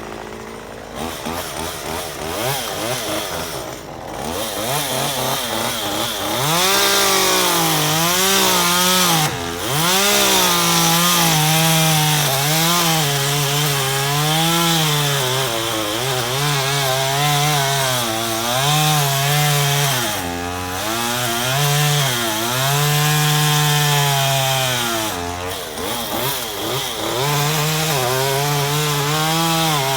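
Chainsaw cutting through tree limbs, its engine pitch rising and sagging over and over as it bites into the wood, with three short drops in pitch where it comes briefly off the cut.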